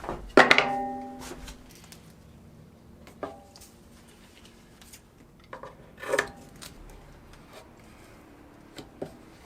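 A few sharp knocks of a wooden insert plate being handled and set into the table saw's throat opening, each followed by a short ringing that fades. The loudest is about half a second in, with others about three and six seconds in.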